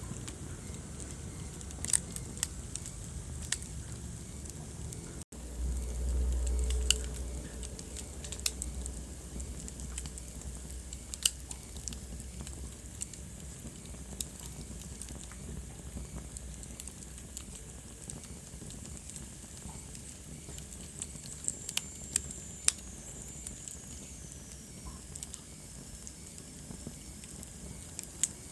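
Wood fire in a fireplace crackling, with sharp snaps and pops scattered throughout over a steady hiss. A low rumble of the flames swells for a few seconds after a brief dropout about five seconds in, and a faint high whistle slowly falls in pitch later on.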